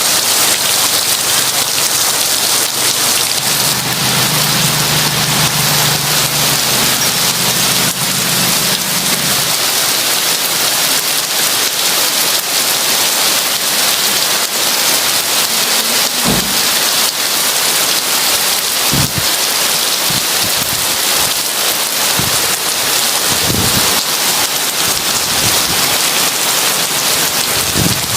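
Heavy rain falling steadily as a dense hiss, with a low rumble of thunder from about four to nine seconds in and a scattering of short low thuds in the second half.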